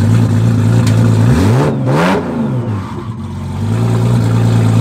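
Heavily tuned sports car's engine idling with a steady low drone, then revved once about a second in. Its pitch rises and falls back, and it settles into idle again before the end.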